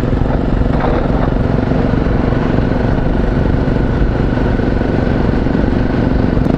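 Single-cylinder dual-sport motorcycle engine running steadily, with a low rumble of wind on the helmet microphone.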